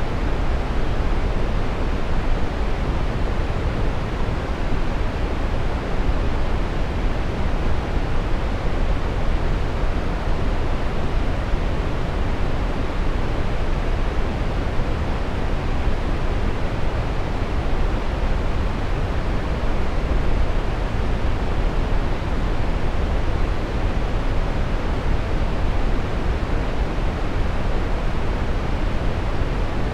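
Steady brown noise: an even, unchanging rushing hiss weighted heavily toward the low end, with no events or changes.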